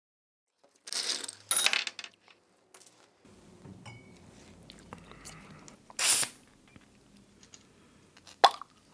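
Clinks, knocks and handling of a glass soda bottle and glassware, with a loud brief clatter about six seconds in and a sharp glass clink near the end.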